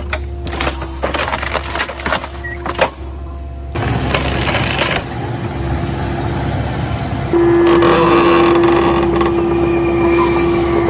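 Tree shear grapple on an excavator cutting into wood, with sharp cracks and splintering over the excavator's running diesel engine. About seven seconds in, a loud steady whine sets in and holds.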